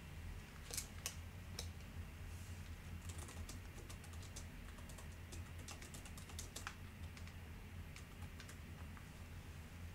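Typing on a computer keyboard: a quick, irregular run of faint key clicks, as a short online post is written, over a steady low hum.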